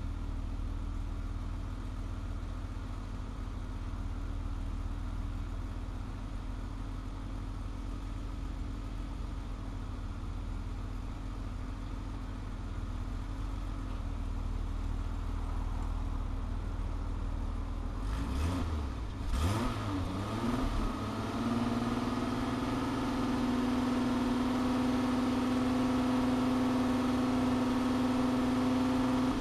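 Eagle Premier's engine running just after being revived from two months of sitting: a steady idle, then revved in a couple of quick rises and falls about 18 seconds in, then held at a higher, steady speed.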